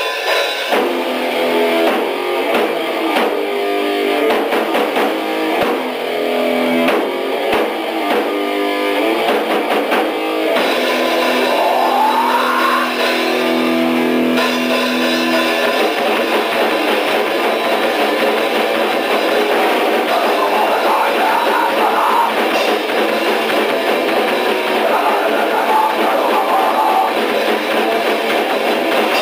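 D-beat raw punk band playing, with distorted electric guitar and drum kit, on a thin, lo-fi demo recording with almost no bass. The first half is stop-start chords with short breaks, and from about halfway the full band plays on steadily.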